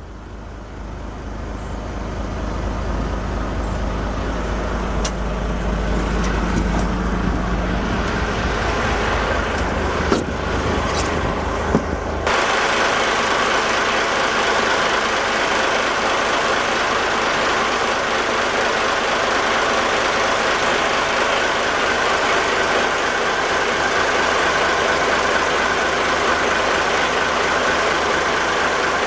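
A large boat's engine running steadily, growing louder over the first few seconds. About twelve seconds in the sound changes abruptly from a deep, low running sound to a brighter, steady noise with a thin whine.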